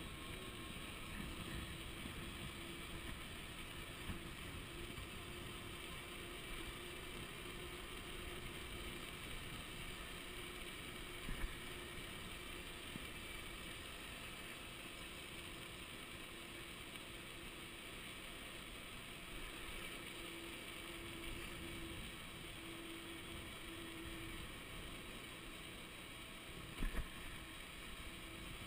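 Electric bicycle riding: steady wind and road noise with a faint steady whine from the 48-volt, 1000-watt Golden Motors rear hub motor that drops out now and then. A short knock about eleven seconds in and a double knock near the end.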